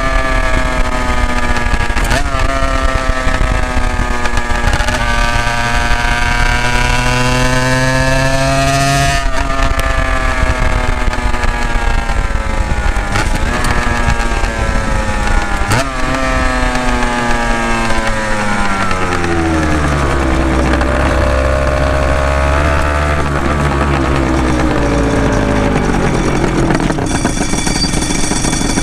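Honda NSR250 MC21's two-stroke V-twin blaring through Dog Fight Racing expansion chambers, its pitch raised because the footage runs at double speed. The revs climb and break off sharply several times as it changes up through the gears, then fall away as it slows, and rise again near the end.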